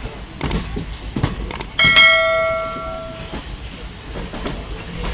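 ICF passenger coach running slowly, its wheels knocking over rail joints and points. Over it, a subscribe-button sound effect: a couple of sharp clicks, then a bell chime about two seconds in that rings out for about a second and a half.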